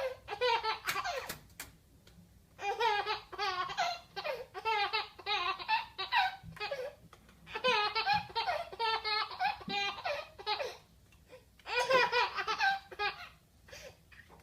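A baby laughing in four long fits, each a string of quick high-pitched pulses of laughter, with short pauses between.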